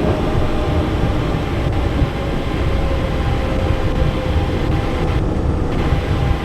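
Cockpit noise of a Cessna Citation Encore, a twin-turbofan business jet, rolling out on the runway after touchdown: a steady rumble with a faint tone slowly falling in pitch.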